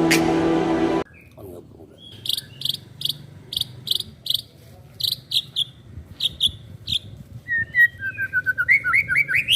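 Intro music cutting off about a second in, then a young white-rumped shama (murai batu) singing: a run of short, high repeated notes about three a second, then near the end a faster run of lower chirping notes.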